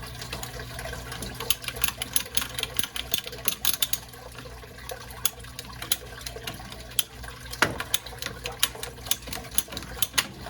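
Old sump pump discharge pipe being cut by hand, a soft rubbery plastic rather than PVC: a quick, irregular run of clicks and short scraping strokes over a steady low hum.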